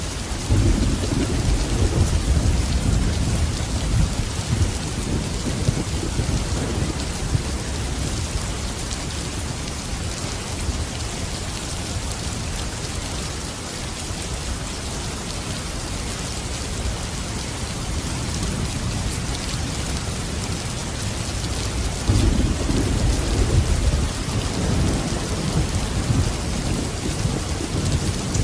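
Steady rain falling, with two rolls of low thunder rumbling: one just after the start lasting several seconds, and another about three-quarters of the way through.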